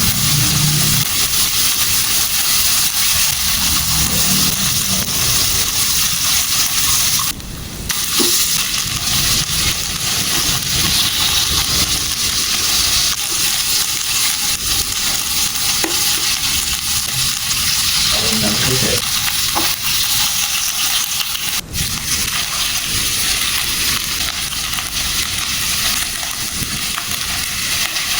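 Food sizzling steadily while it grills on a hot electric cooking pot, with a short dip in the sound about seven seconds in.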